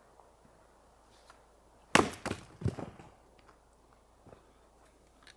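Firewood being split: one sharp chop into a log about two seconds in, followed by a couple of lighter knocks of wood.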